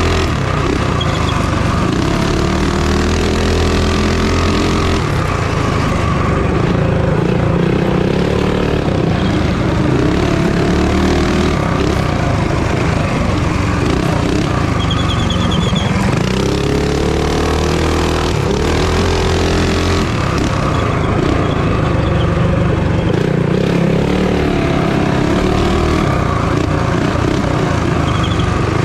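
Minibike engines running hard in a race, their revs rising and falling again and again.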